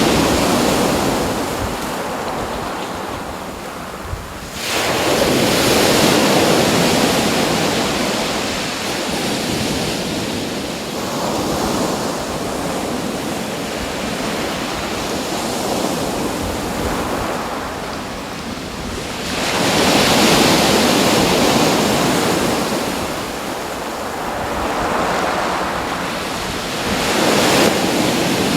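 Waves breaking and washing in, a rushing noise that surges and falls back every few seconds, with one sudden surge about five seconds in.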